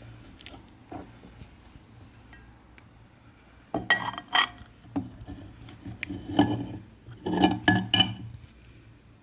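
Clinks and scrapes of hard kitchenware, metal or glass, handled in a quick cluster that starts about four seconds in, some strikes ringing briefly.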